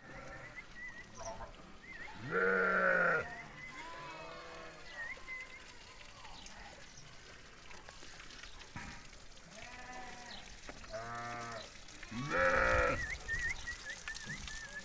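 Sheep bleating several times, with two loud bleats about two seconds in and near the end, and fainter bleats between.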